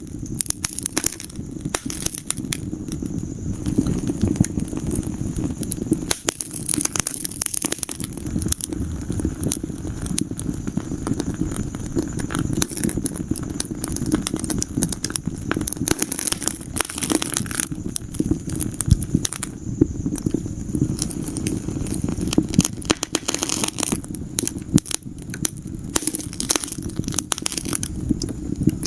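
Wood fire crackling in a fireplace: many sharp pops and snaps over a steady low rumble of burning.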